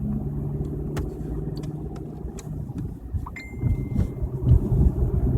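Car road noise heard from inside the cabin while driving on a wet highway: a steady low rumble of engine and tyres that grows louder about halfway through, with a few sharp clicks.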